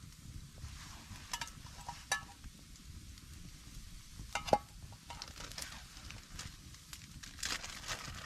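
Scattered crackles and clicks over a low rumble. One sharper, ringing click comes about halfway through, and a cluster of crackles near the end.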